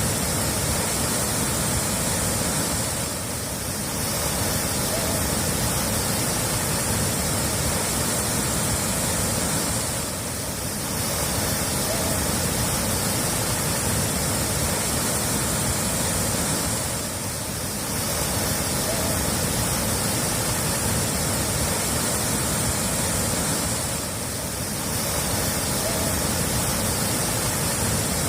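Steady rushing water, a dense even hiss with a strong high band, dipping briefly about every seven seconds as if looped.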